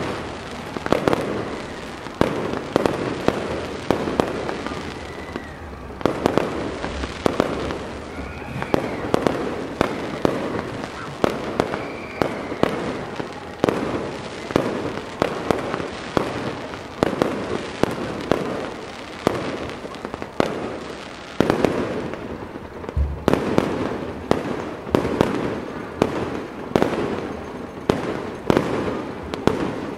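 Aerial fireworks display: shells bursting in quick, continuous succession, with crackle between the bangs. In the first half a few short tones rise and fall in pitch.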